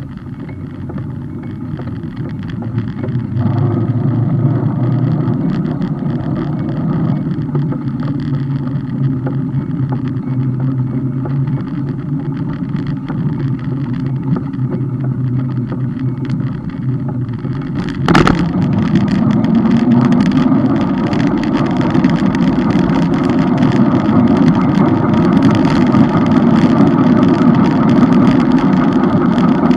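Steady road and vehicle noise heard from a moving bike, with a motor vehicle's engine hum passing for a few seconds near the start. A sharp knock comes a little past halfway, and the rumble is louder after it.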